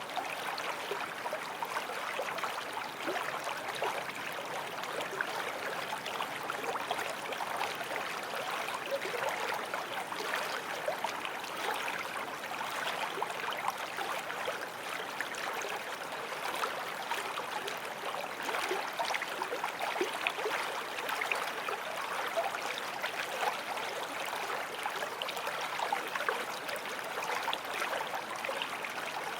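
Small forest stream flowing over stones: a steady babbling and splashing of water.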